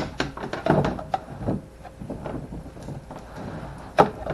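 Handling knocks and clicks from working a fish tape and cable through the inside of a plastic kayak hull: a quick cluster of sharp knocks in the first second and a half, softer rattling after, and one loud knock near the end.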